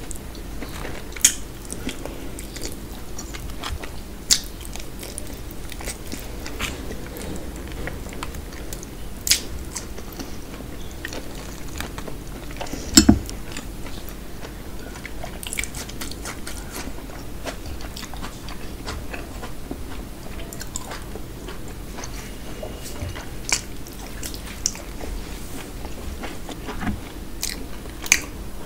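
Close-miked chewing and mouth sounds of someone eating puri with mutton curry, with short clicks and smacks scattered throughout. A louder low thump about thirteen seconds in.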